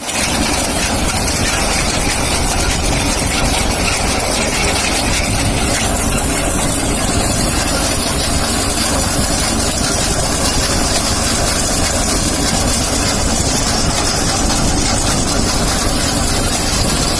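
Tractor with a wheat reaper attached, its engine running steadily, with a loud even noise over it that starts abruptly.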